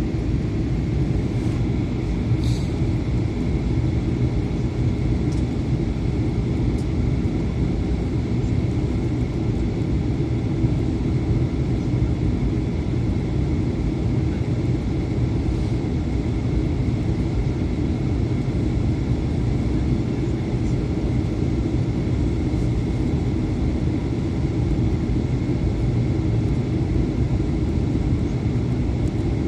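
Steady drone of engine and airflow noise inside an Airbus A320 cabin during the descent to landing, with a faint steady whine above the low rumble.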